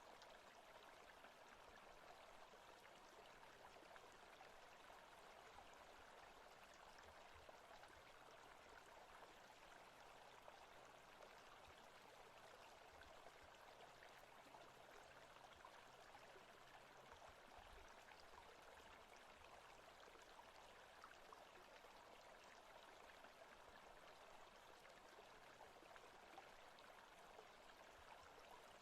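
Faint, steady rush of a forest stream.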